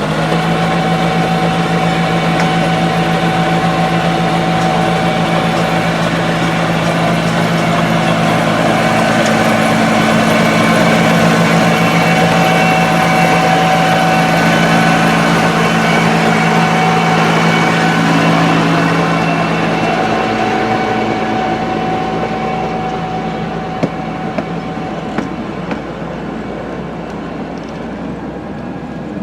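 A Romney, Hythe and Dymchurch Railway miniature train running through the station, a steady mechanical hum with held tones. It is loudest about midway and eases off over the last third, with a few rail clicks near the end.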